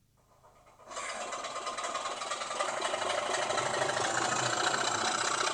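Sound-fitted OO gauge Class 24 model locomotive playing its diesel engine sound through its small onboard speaker while it runs under power on a rolling-road test rack. The engine sound starts about a second in and grows louder.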